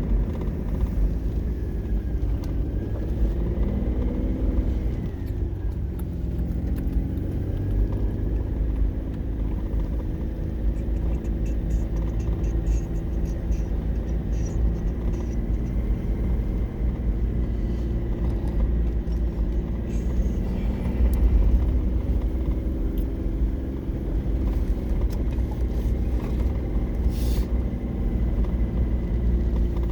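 An engine running steadily with a low rumble, its pitch rising and falling briefly a few seconds in.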